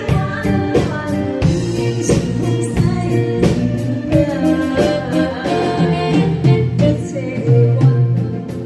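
A woman singing a Taiwanese enka-style song over instrumental accompaniment with a steady beat.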